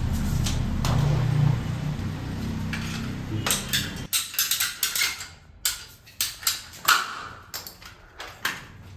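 Plumbing work on PVC pipe and fittings. A low steady hum cuts off about four seconds in, and is followed by a string of sharp, irregular clicks and knocks of hard plastic parts being handled.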